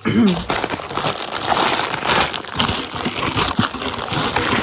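Lego set packaging crinkling and rustling as it is handled, with many small clicks throughout.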